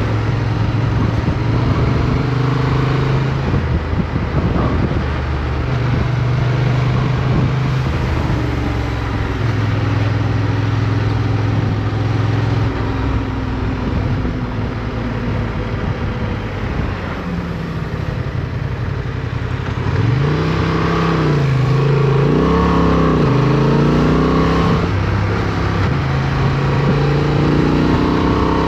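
Motorcycle engine heard onboard while riding, running at a steady pitch, then revving up and down repeatedly from about two-thirds of the way in as the throttle is worked through turns, over a constant rush of wind and road noise.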